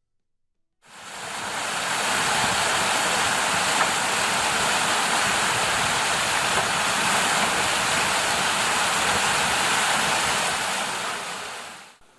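Steady rushing of river water, fading in about a second in and fading out near the end.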